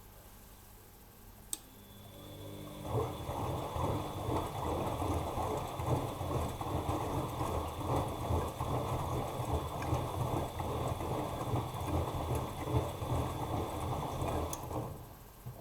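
Bosch Maxx Advantage WFCX2440 washing machine in its wash cycle: a click, then the drum motor starts with a thin whine and the wet laundry tumbles in the drum for about twelve seconds before the drum stops suddenly.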